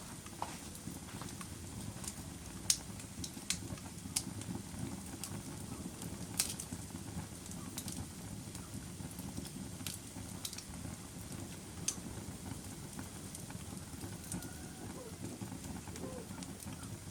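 Wood fire burning in a fireplace: a steady low rush of flame with irregular sharp crackles and pops from the burning wood.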